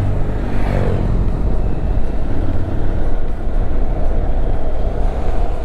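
Motorcycle running at road speed: a steady engine drone mixed with wind rush on the microphone, with a pitch that falls briefly near the start.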